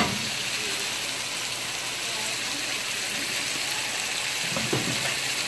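Steady sizzle of food frying in hot oil in a pan, with a faint knock about four and a half seconds in.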